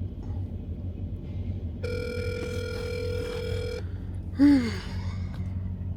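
A telephone ringback tone over speakerphone, sounding once for about two seconds while the call waits to be answered. A brief voice follows about a second later, with a low steady hum underneath.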